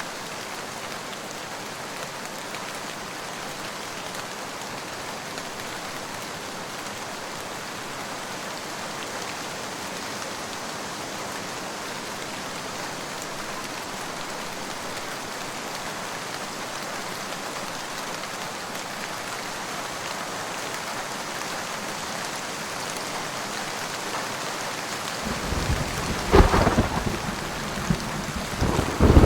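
Steady rain, then a roll of thunder breaking in near the end, with two loud cracks over a low rumble.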